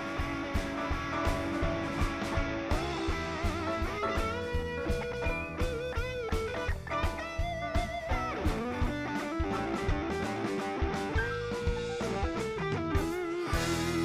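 Live blues band playing an instrumental break: lead electric guitar with bent, wavering notes over a steady drum beat and bass.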